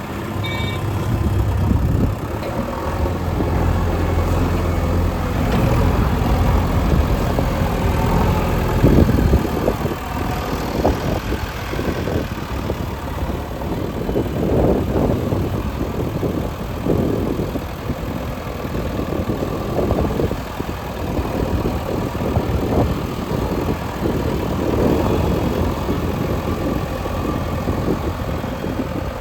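Heavy construction machine's diesel engine running steadily, with irregular low thumps and rumbles from about nine seconds in.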